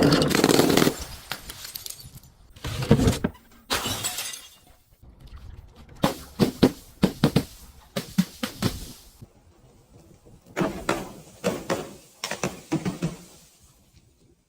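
Glass bottle shattering with a loud crash, followed by its broken glass being crushed: a couple of single cracks, then two runs of rapid sharp crunching.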